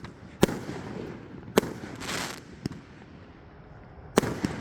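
Plaka Vintage King 58-shot fireworks cake firing: a run of sharp booms at uneven intervals, about seven in all, with a pause of over a second in the later part.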